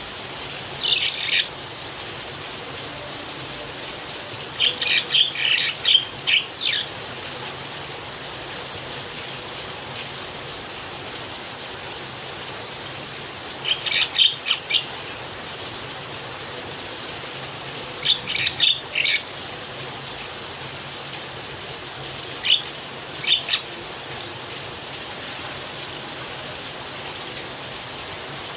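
Javan myna calling in about five short bouts of quick, sharp notes, spaced several seconds apart, over the steady hiss of falling rain.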